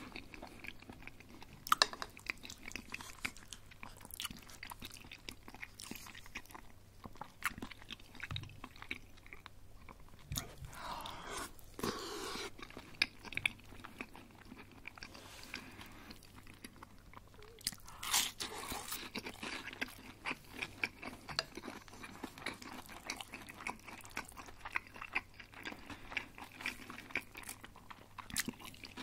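Crispy breaded chicken schnitzel being bitten and chewed close to the microphone, crunching in irregular bursts.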